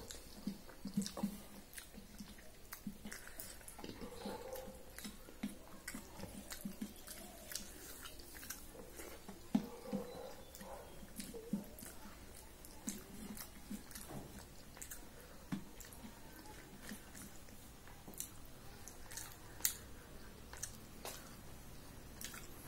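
A person chewing mouthfuls of rice and curry eaten by hand, with soft mouth sounds and scattered small clicks of fingers mixing food on a steel plate.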